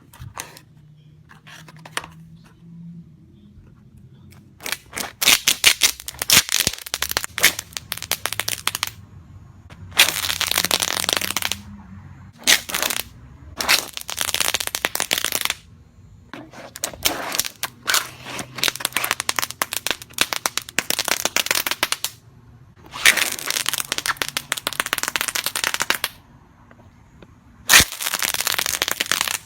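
Wise Guy 'Sliders' fireworks going off: several rounds of rapid crackling pops, some running together into dense stretches a second or two long, with short quieter gaps between rounds.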